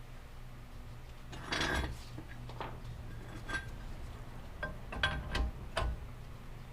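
Steel ball joint press parts clinking and knocking as the receiving cup and adapter are fitted around a new ball joint: a short scrape, then several separate metal clinks.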